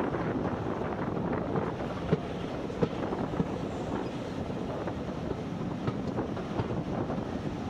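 Moving train: a steady rumble of the carriage on the track, with a few sharp knocks about two to three and a half seconds in, and wind buffeting the microphone.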